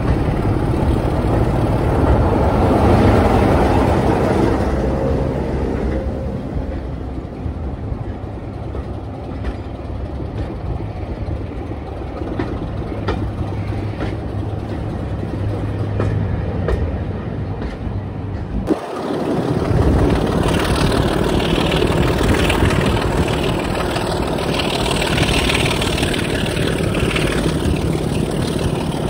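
A diesel locomotive passing close by on the next track, its engine running loudest in the first few seconds, then passenger coaches rolling past with wheels clicking over rail joints. After a sudden break, the steady rush of riding in a moving diesel-hauled train with its engine working.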